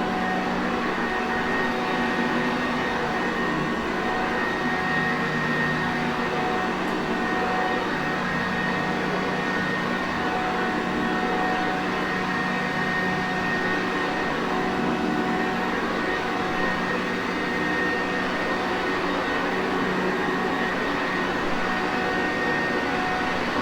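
Sanitaire Perfect vacuum cleaner running steadily, a constant rushing noise with a steady motor whine over it.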